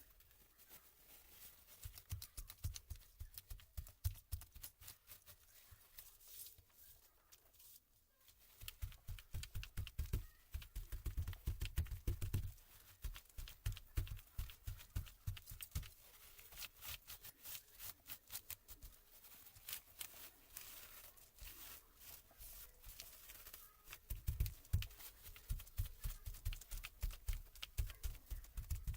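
Laptop parts being handled and worked on during disassembly: quick runs of small clicks, taps and knocks with dull thumps, in several busy stretches with lighter handling between.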